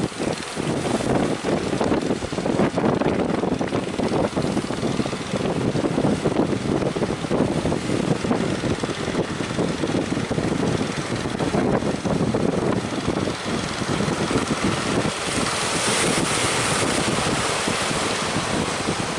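Strong wind buffeting the microphone over the rush of breaking sea waves, with a louder hiss of surf swelling about three-quarters of the way through.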